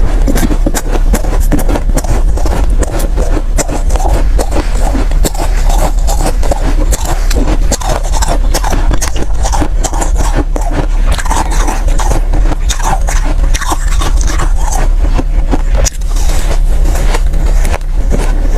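Soft ice being crunched and scraped close to the microphone: a dense, unbroken run of crackling crunches.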